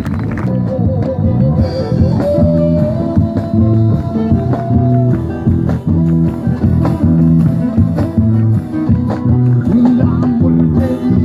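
Live band playing music led by guitars over a steady, repeating rhythm.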